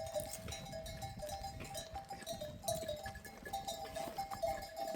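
Bells on grazing livestock clinking irregularly as the flock moves, short ringing notes overlapping.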